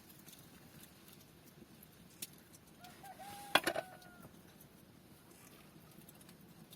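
A single short bird call about halfway through, held at one pitch for about a second and a half, with a quick run of sharp clicks over it, the loudest sound.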